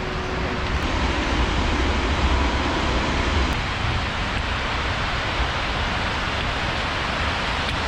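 Steady rushing of water from a small waterfall, an even hiss with a low rumble beneath.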